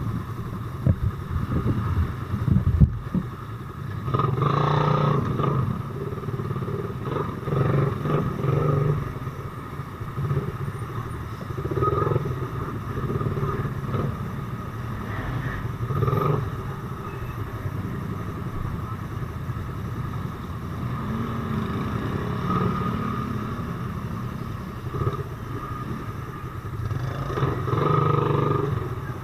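Motorcycle engine running in slow traffic, swelling in several short bursts of throttle between steadier running. Wind buffets the microphone for the first few seconds.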